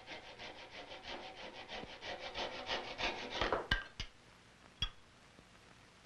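Hand file rasping on a rifle stock in quick, short, even strokes, about six a second, growing louder, then stopping with two sharp knocks and a single click as the work is set down.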